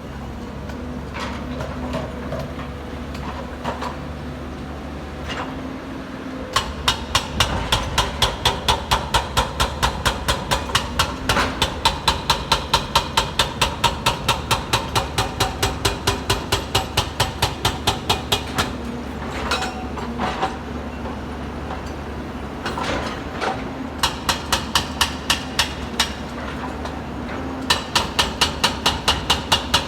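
A heavy machine's engine runs with a steady low hum. After about six seconds, bursts of rapid, even metallic hammering begin at about five blows a second. They stop and start twice more.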